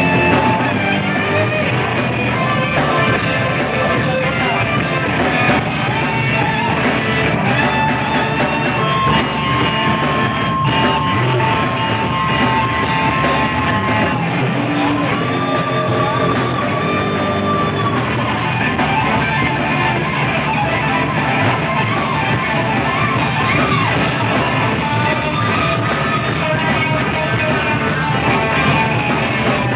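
Blues-rock band playing. A guitar lead with long held, bending notes runs over a steady drum beat.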